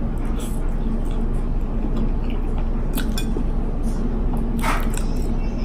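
Close-up eating sounds of a sauce-dipped boiled egg being chewed, with a few sharp mouth clicks and a short breathy burst about five seconds in, over a steady low hum.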